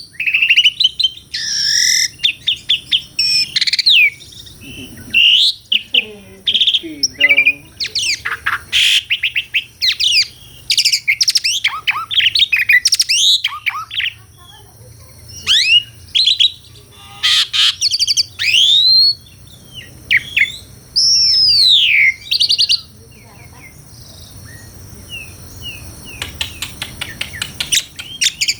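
Asian pied starling (jalak suren) singing a varied, loud song of whistles sliding up and down, chattering notes and short gaps, ending in a fast run of clicking notes.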